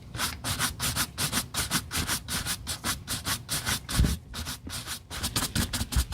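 Rapid back-and-forth rubbing strokes on a shoe, about three to four a second, quickening near the end, with a dull thump about four seconds in.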